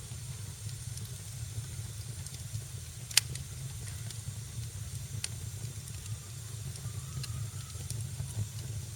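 Wood fire in a fireplace crackling: scattered small pops and ticks over a steady low rumble and hiss, with one loud sharp pop about three seconds in.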